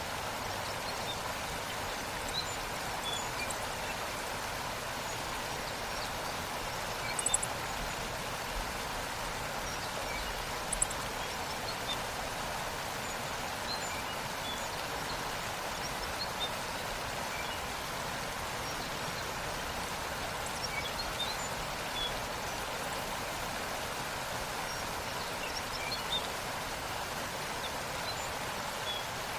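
Waterfall: a steady rush of falling water, with scattered faint high bird chirps and two brief sharp clicks a few seconds apart.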